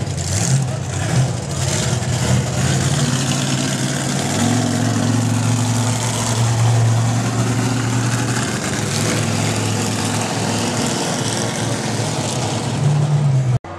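Monster truck engine running at a steady pitch over a wide rushing noise. The sound cuts off abruptly near the end.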